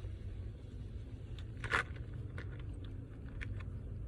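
Low steady rumble of a car cabin, with a few faint clicks and one brief rustle of something being handled.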